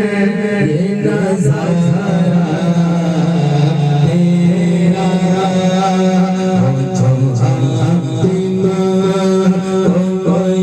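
A naat, an Islamic devotional poem, sung by a solo voice in long, drawn-out notes that move slowly from pitch to pitch.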